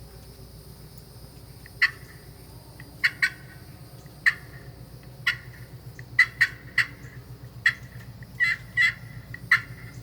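Canary wood and aluminum friction turkey call played in short, sharp clucks and cutts: about a dozen quick notes at uneven spacing, a few in close pairs, over a steady low hum.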